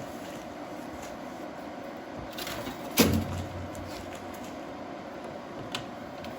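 A brief rustle, then one sharp knock about three seconds in with a short low ring after it, over a steady faint hum; a small click near the end.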